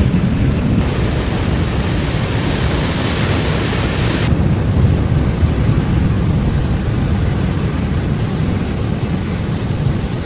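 Ocean surf rushing on the shore, with a brighter wash from about a second in to about four seconds, over a steady low rumble of wind on the microphone.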